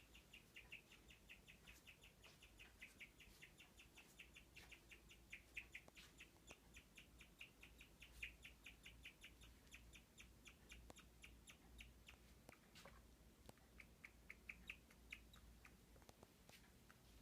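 Guinea pig chirping: a fast, even run of high chirps, about four or five a second, that breaks up into a few short bursts in the last few seconds.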